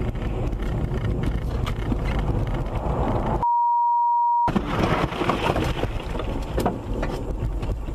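Steady road and engine noise of a car heard from inside, broken about three and a half seconds in by a single steady beep of about a second that blanks out all other sound, a censor bleep over a spoken word.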